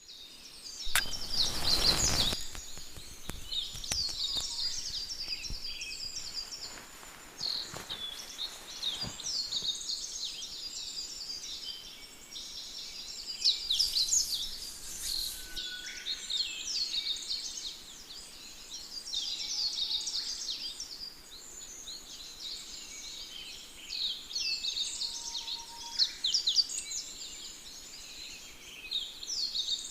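Many birds chirping and twittering in a dense, continuous chorus of quick high chirps. A short burst of noisy clatter sounds about a second in, louder than the birds.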